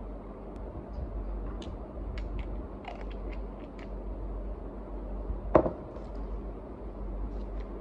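Steady low background hum with scattered faint clicks and one sharp knock about five and a half seconds in.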